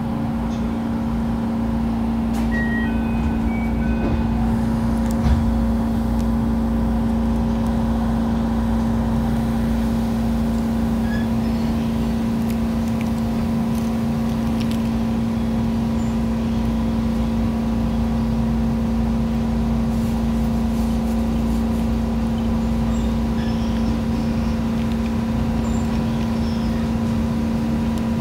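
Electric passenger train moving out of a station, heard from inside the car: a steady low hum with running rumble, and a single knock about five seconds in.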